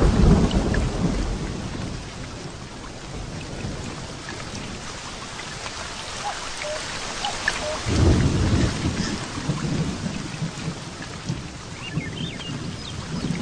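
Heavy rain falling steadily with rolling thunder: one rumble dies away over the first couple of seconds, and another rolls in about eight seconds in.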